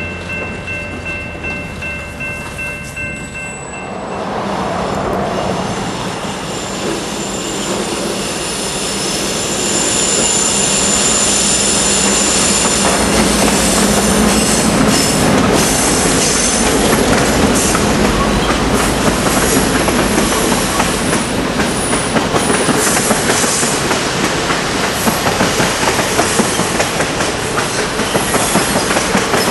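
A diesel-hauled passenger train runs past close by. A steady chord-like horn sounds for about the first four seconds, then the train grows louder with steel wheels squealing high on the rail and a clickety-clack of wheels over rail joints building toward the end.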